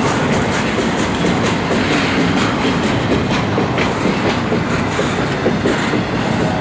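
Intermodal freight train's cars rolling past, a steady loud rumble of wheels on rail with many irregular clicks of wheels over rail joints.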